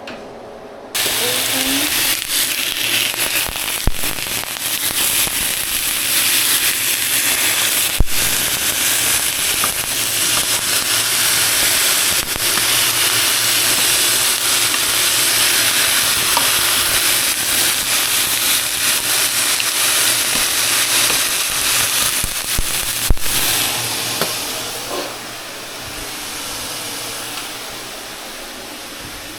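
Food sizzling in a hot pan, starting suddenly about a second in as it hits the oil, with a few sharp pops or clicks, and easing down near the end.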